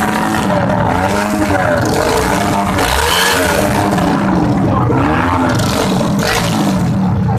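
Motorcycle engines with loud open exhausts being revved hard over and over in a revving contest, the pitch climbing and dropping back in waves about once a second.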